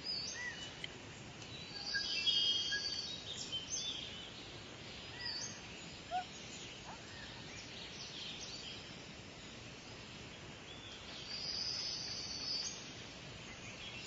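Small birds chirping and singing in high, quick phrases, with a few single chirps between. The song swells a couple of seconds in and again near the end, over a faint steady background hiss.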